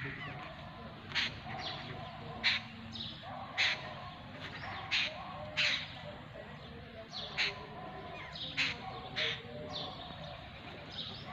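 Birds calling outdoors: short, sharp high calls repeated about once a second, with softer chirping from other birds beneath them.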